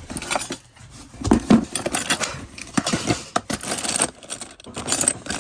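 Small metal pieces clinking and rattling against each other as a pile of pocket watches is rummaged through by hand, in many quick irregular clicks.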